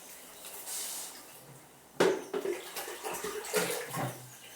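Water sloshing and splashing in a basin as dishes are washed by hand without a running tap. A sharp sound comes about two seconds in, then uneven splashing and handling.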